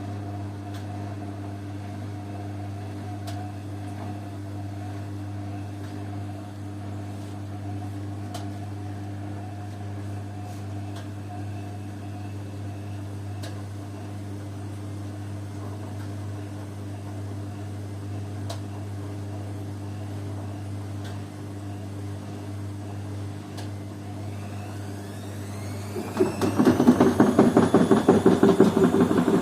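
Washing machine humming steadily with faint clicks, then its drum motor winding up with a rising whine into a loud, rhythmic spin near the end.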